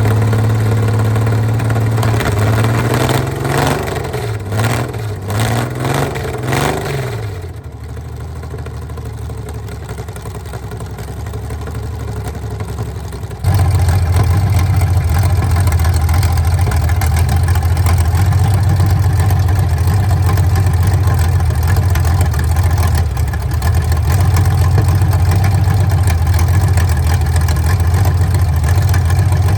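An engine running, revved up and down several times in the first few seconds, then settling. About halfway through it abruptly becomes louder and runs steadily at an even speed.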